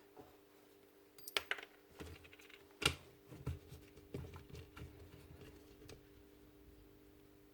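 Irregular small clicks and knocks of jigsaw parts being handled and fitted, the sharpest knock about three seconds in, over a faint steady hum.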